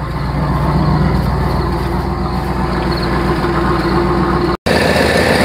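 1987 Cadillac Allante's 4.1-litre V8 idling steadily, freshly tuned up. The sound drops out for an instant near the end and the engine is heard again right after.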